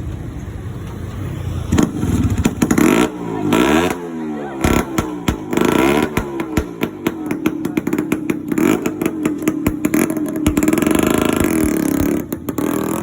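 Vintage Vespa scooter's two-stroke engine, rebuilt to about 350cc, being revved hard, its pitch rising and falling several times. Sharp cracks come between the revs around the middle.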